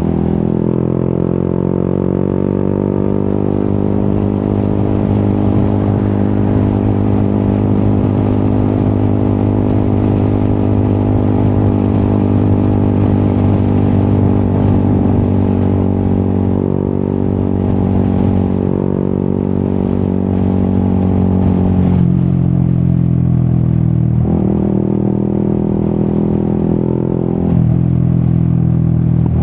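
Yamaha XSR 155's single-cylinder engine through an Akrapovic exhaust, riding along: the pitch climbs over the first few seconds, then holds a steady cruise. Near the end the pitch changes abruptly three times.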